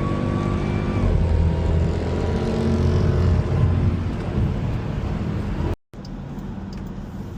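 Dodge Durango SRT Hellcat's supercharged V8 running hard under acceleration, with a high whine over it in the first second. After a brief dropout near six seconds the engine runs more quietly and steadily.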